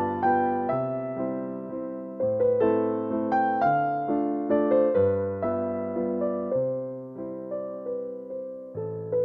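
Background piano music: a slow, gentle melody of single notes over chords, each note struck and fading away.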